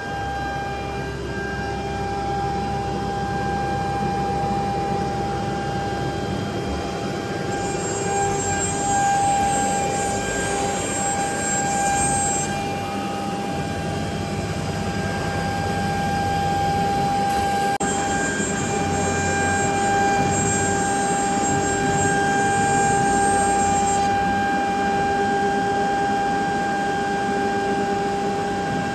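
Woodworking CNC router running: its 5.5 kW water-cooled spindle gives a steady high whine over the rushing noise of the machine and its vacuum-table pump. A brighter hiss comes and goes twice, about 8 and 18 seconds in.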